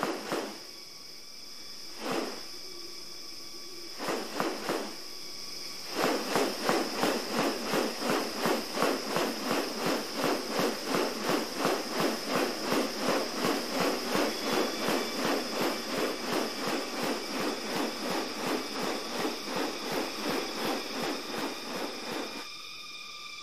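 Rainforest ambience: insects buzzing steadily at a high pitch, with a few separate pulses early, then an evenly repeated pulsing sound about three times a second from about six seconds in until shortly before the end.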